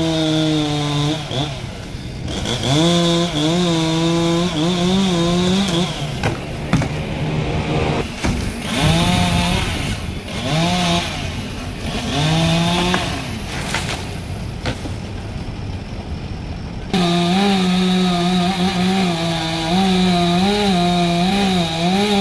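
Two-stroke chainsaw cutting wood at high revs, its pitch dipping and recovering as the chain bites. Midway it revs up and down in short bursts, eases off for a few seconds, then cuts steadily again.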